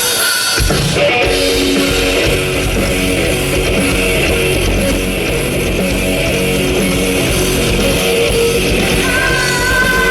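Live rock band playing loud instrumental music with electric guitar, bass and drums, the full band coming in about half a second in. A high held note sounds over it near the end.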